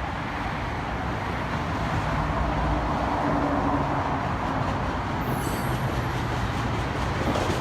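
Steady noise of a moving vehicle, with a low hum under it.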